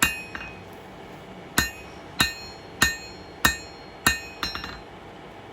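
Blacksmith's hand hammer striking hot 1095 high-carbon steel on the anvil while drawing out a point: one blow, a pause of over a second, then about six evenly paced blows roughly 0.6 s apart. Each blow is a sharp strike with a short metallic ring.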